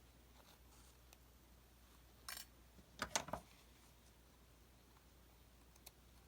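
Near silence broken by faint handling noises of craft work at a table: a short rustle a little over two seconds in, then a quick cluster of light clicks and rustles about a second later.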